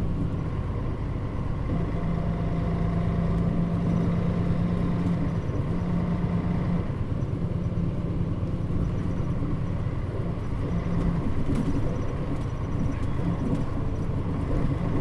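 Mitsubishi Fuso Aero Star city bus (Nishinihon Shatai body, KL-MP35JM modified) under way, its engine and road noise heard from inside the cabin. The engine note runs steadily, dipping briefly about five and seven seconds in.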